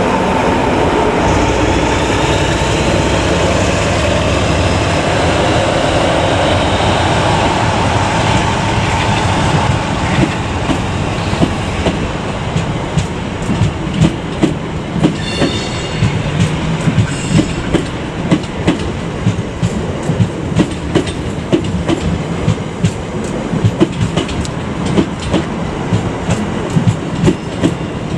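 A GBRf diesel locomotive runs past at close range with its engine rumbling steadily. From about ten seconds in, a South Western Railway passenger train takes over, its wheels clicking in a steady rhythm over the rail joints, with a brief high squeal a few seconds later.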